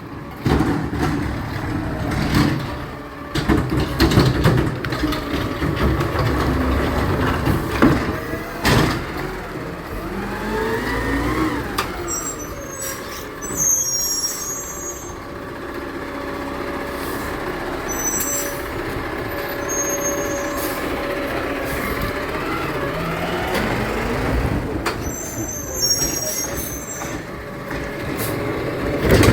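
Garbage truck at work: many clanks and knocks in the first several seconds, then the engine revs up twice, with a steady mechanical whine between the revs and short high squeaks.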